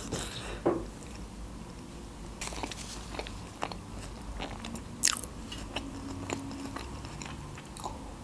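Close-miked eating: chewing and biting food, with scattered small crunches and wet mouth clicks, the loudest about five seconds in.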